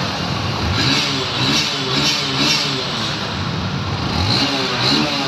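Motorcycle engine being revved in quick throttle blips: a run of several about a second in, then two more near the end, idling between them.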